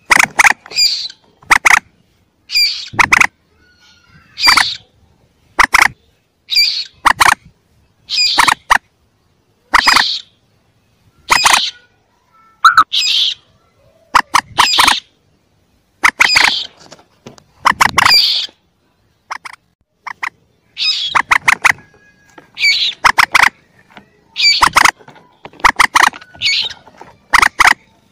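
Juvenile common moorhen calls, a recorded lure for attracting moorhens. The calls are short and sharp, repeating about every one to two seconds, often in quick doubles or triples.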